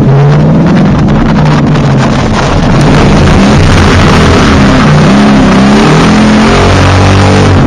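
2000 Ford Mustang drift car's engine revving hard, its pitch climbing and dropping again and again under a dense rushing noise, very loud throughout.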